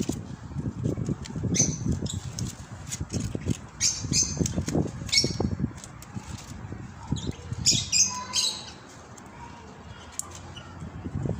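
African grey parrot giving short squawks, four or five times, over irregular low rustling and knocking as it clambers and flaps about in the branches.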